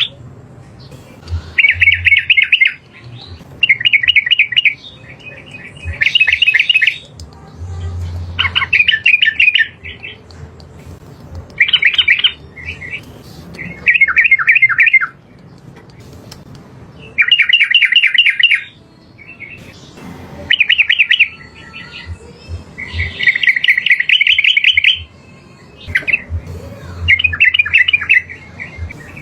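Yellow-vented bulbul (trucukan) singing: a series of short, rapid bubbling phrases of about a second each, repeated every two to three seconds.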